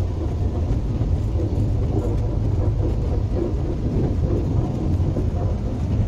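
Steady low rumble of a moving passenger train, heard inside the coach.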